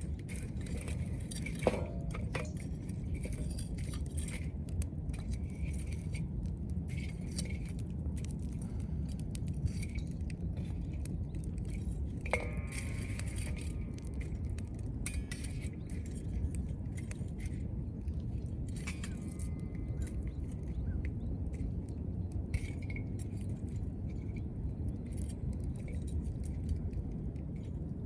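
Wood fire burning with a steady low rush and scattered sharp crackles and pops, and a few light metallic clinks, one ringing clearly about twelve seconds in.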